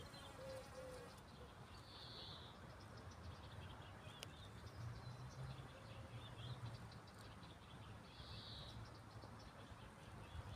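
Faint outdoor ambience with a low rumble and distant bird calls: two brief high calls about six seconds apart, with scattered faint chirps between them.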